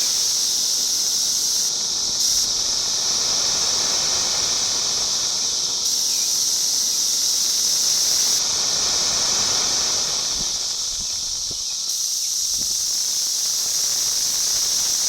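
Dense chorus of periodical cicadas (the 2021 Brood X emergence): a loud, steady, high-pitched screaming drone that holds without a break.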